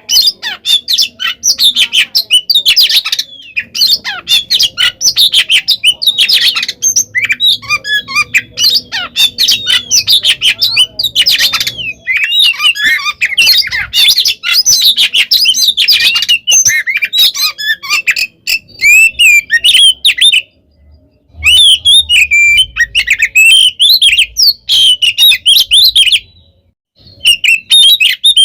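Oriental magpie-robin (kacer) singing loudly in fighting mode: a fast, unbroken stream of varied whistles, chatters and harsh notes. It breaks off briefly twice, about two-thirds of the way through and again near the end.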